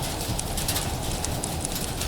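Steady rain with a wood fire crackling over it in quick, irregular pops.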